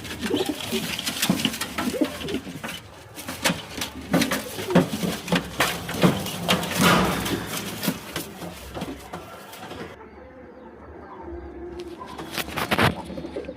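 Several domestic pigeons cooing over one another, with frequent sharp clicks and flutters among them. The cooing eases off about ten seconds in, then picks up again near the end.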